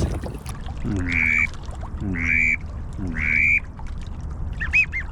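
Goose honking: three drawn-out honks about a second apart, then a quick run of short, higher clucks near the end, over low wind rumble on the microphone.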